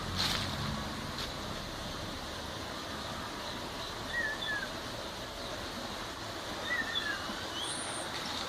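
Steady rushing of river water, with a few short, faint bird chirps about halfway through and again near the end.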